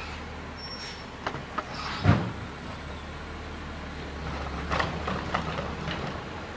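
Garbage truck engine running steadily while collecting yard waste, with a few sharp clanks and knocks, the loudest about two seconds in and a quick cluster near the end.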